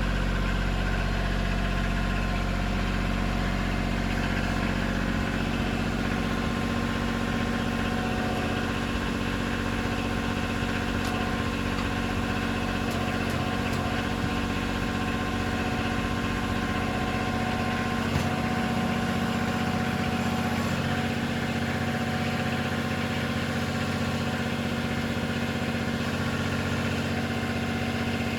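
KIOTI CK2620 compact tractor's diesel engine idling steadily, with a single sharp click about eighteen seconds in.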